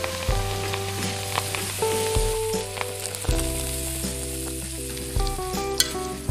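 Beef frying in hot oil in a wok, sizzling as a spatula stirs it. Background music with a steady bass line plays under it.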